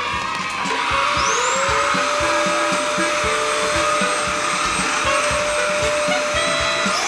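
Cordless cyclone stick vacuum cleaner running, its motor spinning up with a rising whine and then holding a steady high whine with airflow hiss. Near the end the whine steps up in pitch.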